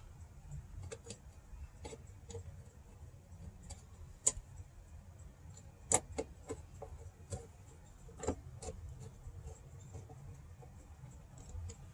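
Faint, irregular small clicks and ticks of hand work: a screw being started and turned to hold a window retaining piece, with metal parts tapping now and then. A low steady hum runs underneath.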